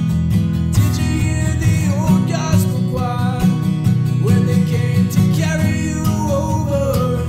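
Rock music from a full band: guitars with regular drum hits, and a melody line sliding between notes above them.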